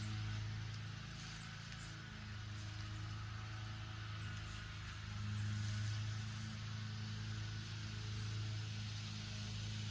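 A steady low hum with an even hiss above it, swelling slightly about halfway through.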